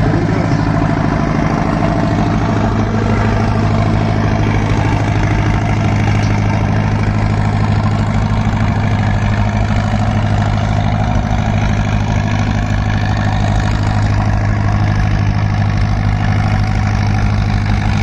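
Tractor engine idling steadily, its pitch unchanging.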